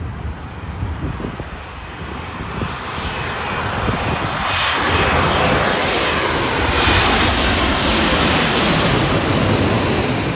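Airliner's engines passing close: a roar that builds over the first few seconds and then stays loud, with wind rumble on the microphone underneath.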